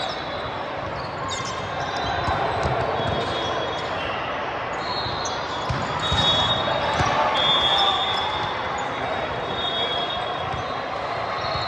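Gym ambience during a volleyball match: a crowd of voices chattering, with balls thudding now and then and short high squeaks, busiest around the middle.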